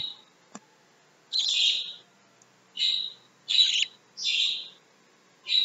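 Budgerigar chick giving repeated short, harsh begging calls, about one a second. A faint click sounds about half a second in.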